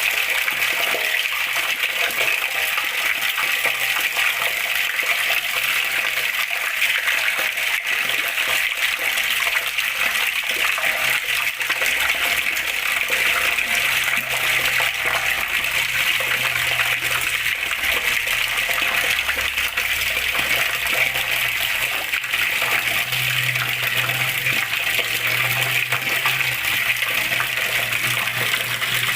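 Water flowing and splashing, a steady rushing sound. A faint low hum comes and goes in the second half.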